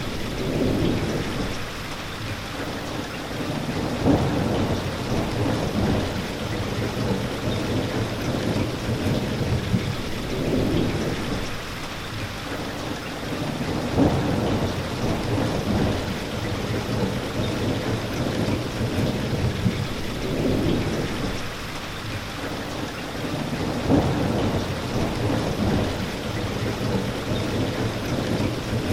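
Steady rain pouring, with low rumbles of thunder that swell and fade every few seconds. Short sharper claps come about every ten seconds.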